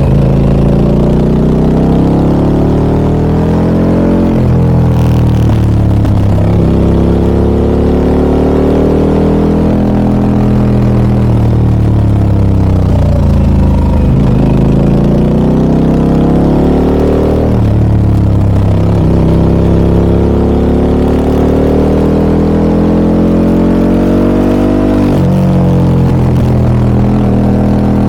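Harley-Davidson Pan America 1250 Special's Revolution Max V-twin through an aftermarket Scorpion exhaust, pulling under throttle: the engine note climbs in pitch and drops back about five times, with gear changes or roll-offs between the pulls.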